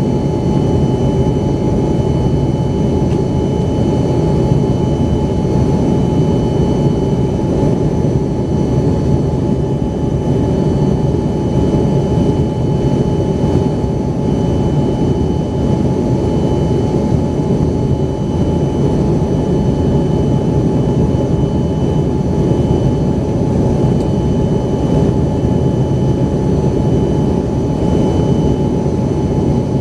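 Steady cabin noise of an Embraer ERJ-135's rear-mounted Rolls-Royce AE 3007 turbofans at constant thrust, heard from inside the passenger cabin: an even low roar with a fixed high whine over it, neither rising nor falling.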